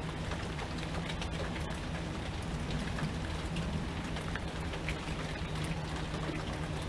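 Steady rain falling, with many individual drops ticking sharply over the general wash. A steady low hum runs underneath.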